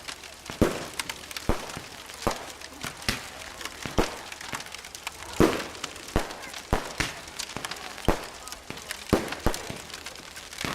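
A series of sharp cracks and snaps, irregularly spaced at about two a second, over a faint steady hiss.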